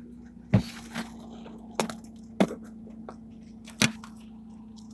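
Five hard, sharp knocks at irregular intervals: hailstones striking the car's body and glass during a severe thunderstorm, over the car's steady low hum.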